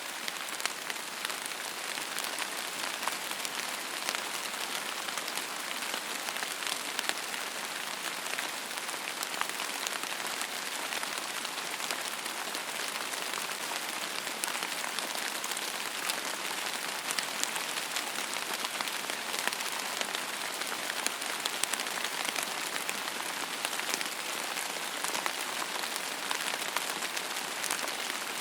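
Steady rain falling on a surface: an even hiss dense with fine drop patter.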